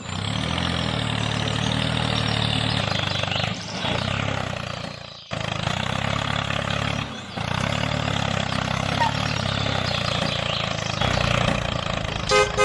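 A motor or engine running steadily with a low hum, dipping briefly twice, with a short horn-like toot near the end.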